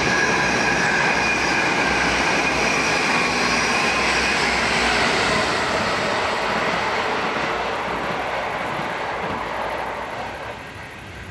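A train passing at speed, loud at first with a few steady high tones over the rumble of the wheels, then slowly fading as it moves away.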